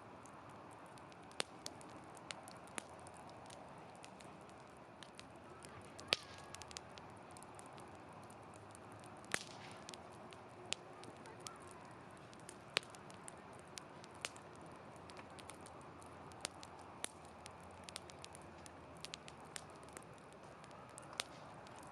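Wood campfire burning in a fire stand, crackling with irregular sharp pops over a soft steady hiss of the flames.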